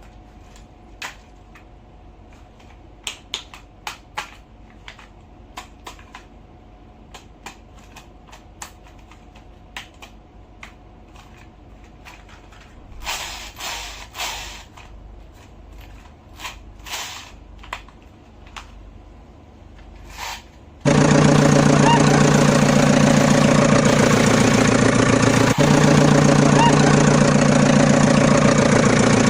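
Scattered light clicks and taps of small parts being handled, then about two-thirds of the way in a small motor switches on suddenly and runs loudly and steadily, with two brief dips.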